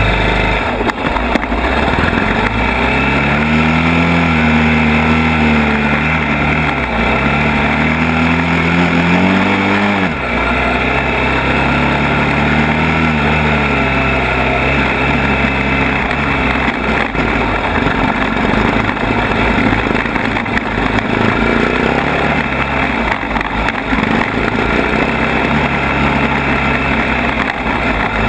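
ATV engine running under way, its note rising and falling as the throttle is worked, with several swells and dips in the first half, then a steadier pull.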